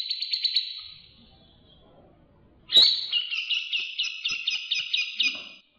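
Songbird trills. A fast, high chattering trill fades out within the first second; after a short pause a loud burst of rapidly repeated high chirps starts suddenly and stops abruptly near the end.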